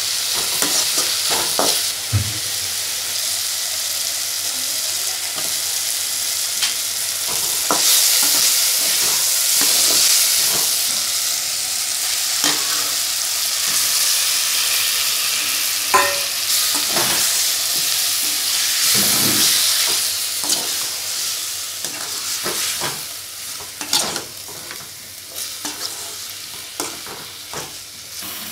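Onions, tomatoes and curry leaves sizzling in oil in a metal pot, stirred with a metal slotted spoon that scrapes and clinks against the pot. Once the chicken pieces are in, the sizzle grows fainter in the last several seconds and single spoon knocks stand out.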